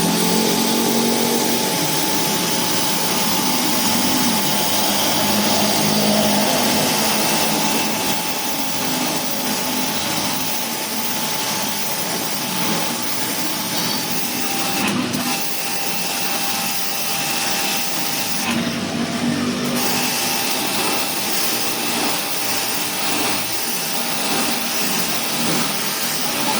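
Electric pressure washer running steadily, its motor whining under the hiss of the water jet spraying. The spray hiss drops away briefly twice, about 15 and 19 seconds in.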